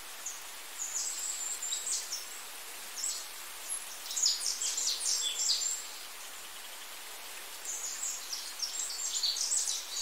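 Small birds chirping and twittering in quick, high-pitched calls that come in several bursts, over a steady background hiss.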